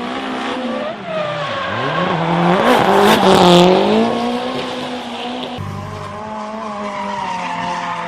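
Drift car's engine revving hard, its pitch rising and falling, with tyres squealing and skidding. It is loudest about three seconds in.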